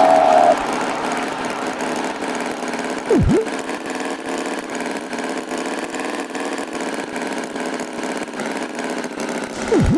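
Cartoon tractor engine sound effect running steadily, with one quick swooping sound effect about three seconds in.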